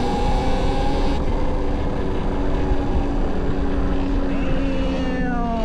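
Talaria XXX electric dirt bike's motor whining under throttle, the pitch drifting slowly, then dropping sharply about five seconds in as the bike slows, over the rush of wind on the microphone.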